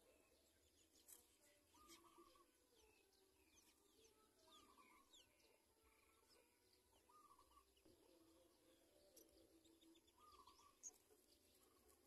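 Faint birds chirping: a short call repeating every two seconds or so, with quick high chirps in between.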